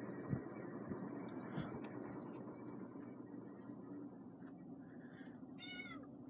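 SMC Laguna KA-36 industrial ceiling fan coasting down after being switched off, its air noise fading gradually, with faint scattered ticks that the owner puts down to crud in a bearing. A brief squeak comes near the end.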